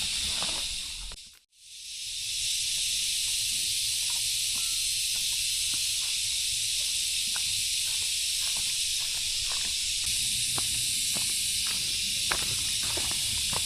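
Steady, high outdoor hiss with scattered light ticks, briefly fading out and back in about a second and a half in.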